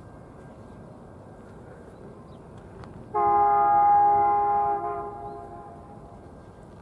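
Diesel locomotive air horn sounding one blast of about two seconds, several notes at once as a chord, starting suddenly about three seconds in and trailing off as it echoes.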